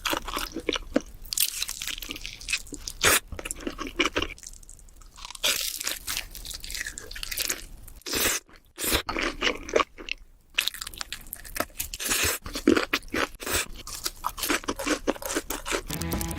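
Close-miked eating: a person biting into and chewing crunchy food, with a dense run of sharp, irregular crunches and a few short pauses.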